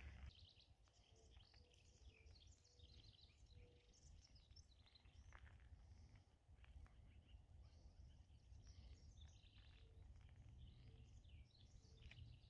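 Near silence outdoors, with faint scattered bird chirps and calls.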